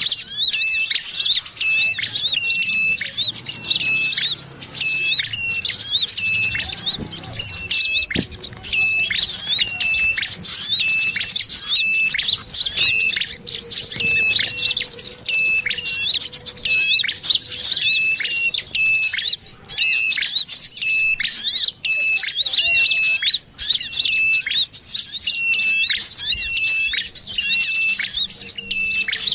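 Bird-lure recording: a dense, unbroken mix of small birds chirping and chattering, a 'sogon' chatter combined with prinia and brown-throated sunbird calls. A short, lower call repeats about once a second under the high chattering.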